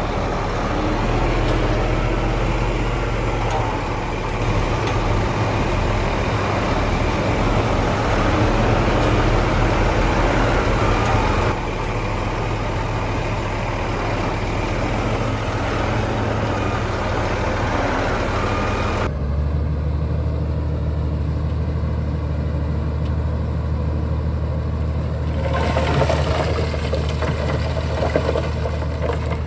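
Heavy Shantui bulldozer's diesel engine running steadily under load, with mechanical clatter over it. The sound changes abruptly about a third of the way in and again about two-thirds in, and gets noisier for a few seconds near the end.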